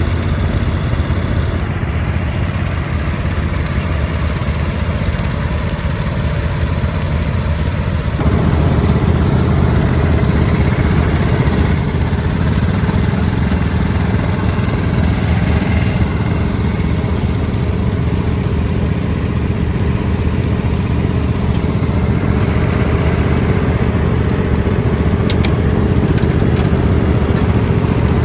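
Lawn mower engine running steadily; about eight seconds in, its note shifts and it grows louder.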